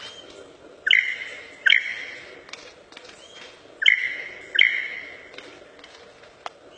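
A bird calling with loud whistled notes, two pairs of them: each note a quick upward sweep into a held note that fades away.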